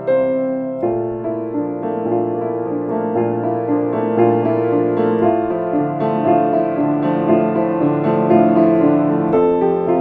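Solo piano music, slow and calm, played in repeated notes and chords that change about a second in and again near the end.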